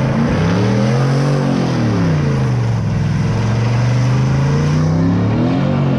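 Car engine revving up, falling back and rising again, over a steady loud hiss of spinning tyres: a car doing a burnout or donuts.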